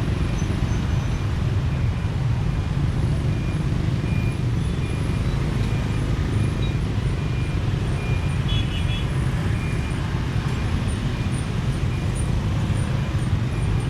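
Motorbike riding through city traffic: a steady low rumble of engine and road noise, with a brief higher-pitched beep about eight and a half seconds in.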